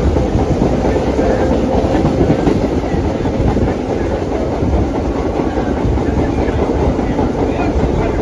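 Vintage R1/9 New York subway train in motion, heard from on board: a steady, loud running noise of wheels on the rails.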